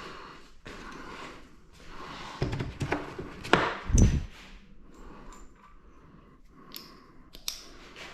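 Knocks and clatter of someone rummaging through garage hardware for metric bolts: a cluster of heavier thunks about two and a half to four seconds in, then a few lighter clicks near the end.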